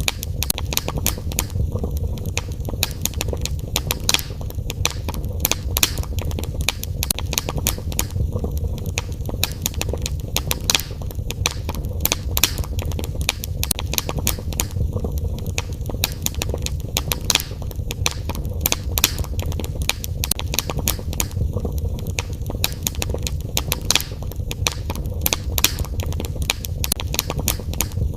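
Wood fire burning in a fireplace: irregular crackles and pops, several a second, over a steady low rumble of the flames.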